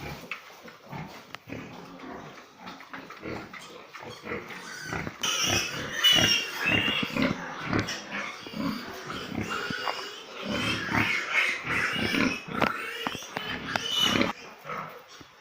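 Pigs grunting, then a stretch of high-pitched squealing from about five seconds in that stops suddenly near the end.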